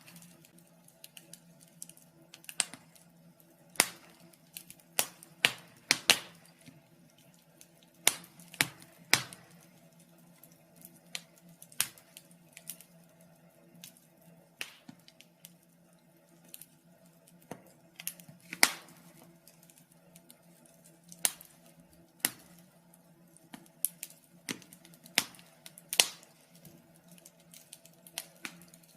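Wood fire burning in a fireplace, crackling with irregular sharp pops and snaps every second or so, over a faint steady hum.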